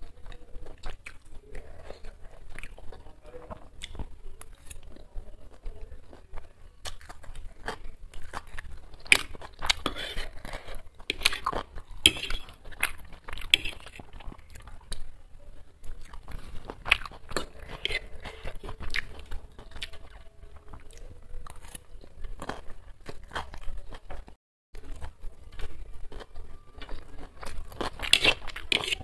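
Close-up eating sounds: a person chewing and biting mouthfuls of egg-chicken chow mein, with many short, sharp mouth clicks and crunches, and a fork scraping and tapping on a ceramic plate. The sound cuts out for a moment about three-quarters of the way through.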